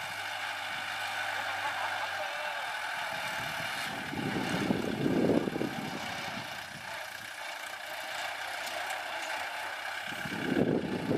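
Kubota L4708 tractor's diesel engine running steadily, with a louder, rougher stretch around the middle.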